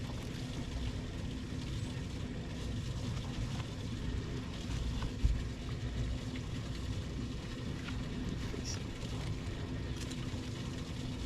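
A steady low rumble of a running engine, with one brief thump about five seconds in.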